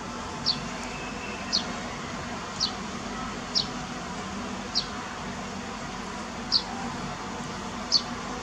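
A bird repeating a short, high call that slides downward, about once a second, over a steady background hiss.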